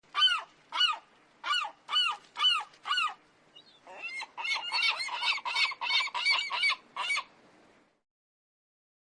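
A bird honking: about six spaced honks, then a quicker run of about ten overlapping honks that stops about seven seconds in.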